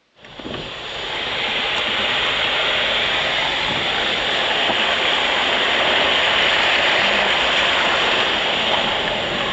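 Rushing river water, a steady loud rush that cuts in abruptly at the start.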